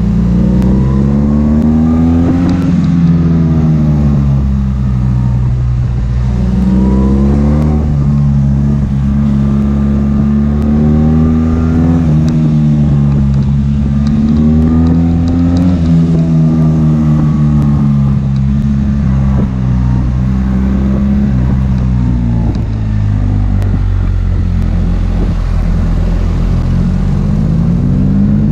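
BMW R 1300 GS boxer twin engine heard from on board the moving motorcycle, its revs rising and falling several times as the rider accelerates and eases off, with a steady rush of wind and road noise underneath.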